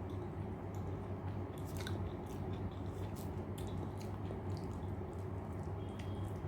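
Close-miked chewing and wet mouth sounds of a person eating rice with dal and fried vegetables: scattered small smacks and clicks over a steady low hum.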